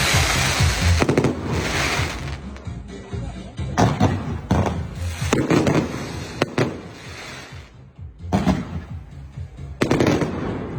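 Fireworks cake firing in a volley: about eight sharp bangs spread irregularly, a second or so apart, several trailing off into crackle, over background music.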